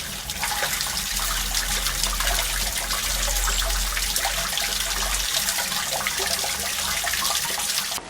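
Water running and splashing, with many small crackles.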